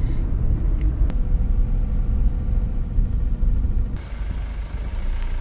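A car's engine and tyre rumble heard from inside the cabin while driving, steady and low, changing in character about four seconds in.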